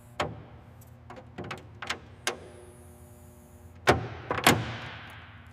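A car door being handled: a few light clicks and knocks, then two louder clunks about half a second apart near the end, trailing off in a fading echo.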